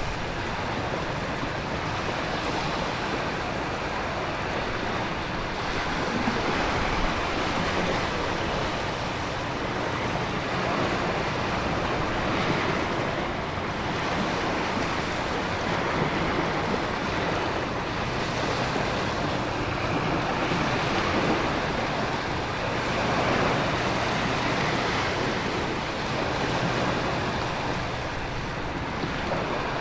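Storm ambience of heavy rain, wind and ocean surf blended into a dense, steady rush that swells and eases gently every few seconds.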